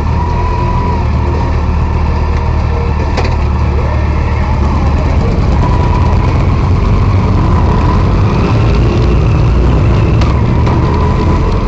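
Motorcycle engine running steadily at low revs under way, a continuous low rumble, with two sharp clicks, one about three seconds in and one near the end.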